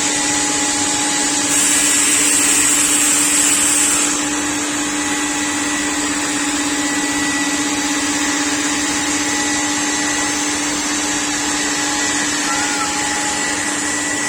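CNC panel-cutting router running: a steady hum over a constant hiss, the typical sound of the spindle and its dust extraction. A louder, hissier stretch comes about one and a half to four seconds in.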